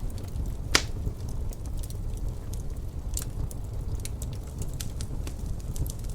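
Wood fire crackling, with scattered small pops and one loud pop just under a second in, over a steady low rumble of wind.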